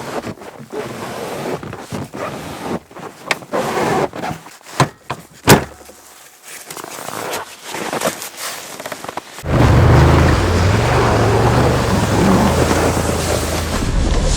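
Rustling handling noise with several sharp knocks, then, about two-thirds of the way in, a snowmobile engine running loud and steady with wind rushing over the microphone.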